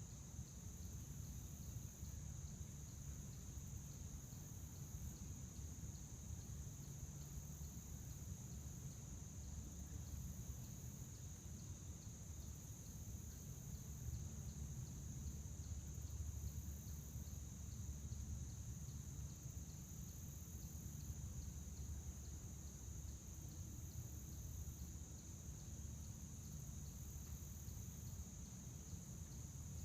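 Crickets chirring in a steady, unbroken high trill, with a second, higher insect sound swelling and fading about every two seconds, over a low rumble.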